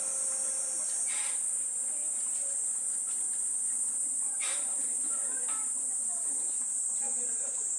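Steady high-pitched trilling of crickets on a summer night, with two faint short bursts of noise about a second in and about four and a half seconds in.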